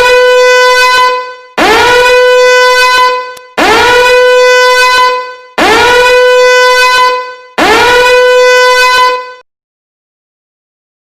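A horn sound effect blown five times in a row, each blast about one and a half seconds long. Each blast swoops up in pitch at its start and then holds one loud, steady, bright note.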